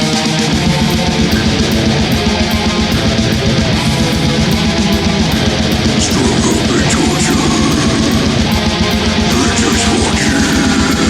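Heavy metal with down-tuned, distorted electric guitar riffing over very fast, continuous kick drums, with a few sliding, squealing guitar notes between about six and eleven seconds in.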